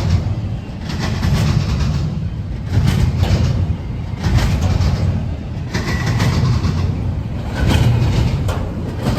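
Intermodal freight train's cars rolling past, a steady low rumble with swells and occasional sharp clanks.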